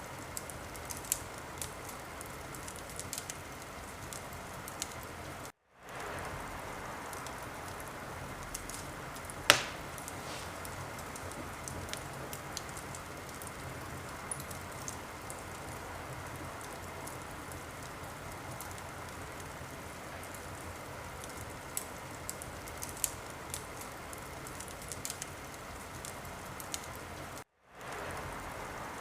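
Wood fire crackling in a fireplace: a steady hiss of burning logs with scattered sharp crackles and one loud pop about nine seconds in. The sound drops out for an instant twice, about six seconds in and near the end.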